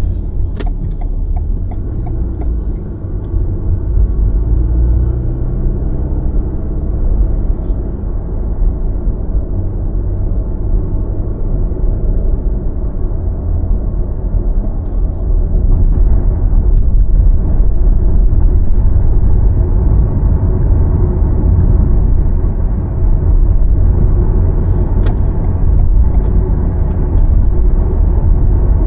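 A car driving along: a steady low rumble of engine and tyre noise, growing somewhat louder about halfway through.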